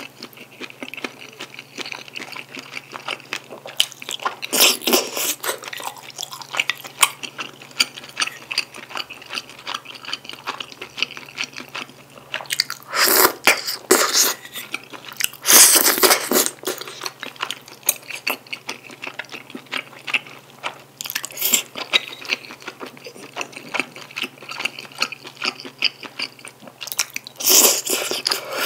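Close-miked eating of jjajang tteokbokki: chewy rice cakes and wide glass noodles in sticky black bean sauce. Continuous wet chewing and mouth clicks, with several louder bursts of about a second each.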